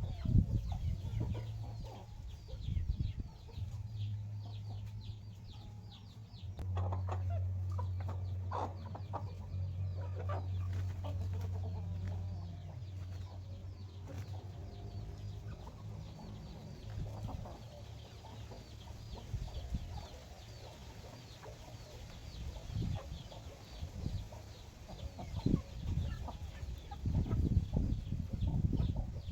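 Free-range chickens clucking on and off, with a denser run of calls about a quarter of the way in and again near the end, over a low steady hum.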